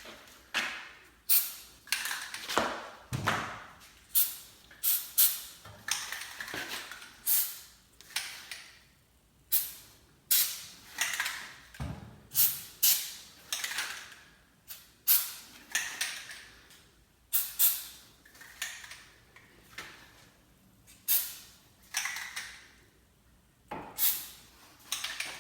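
Aerosol can of white lithium grease spray fired in a long series of short squirts, about one a second, lubricating garage door hinges and rollers to stop them squeaking.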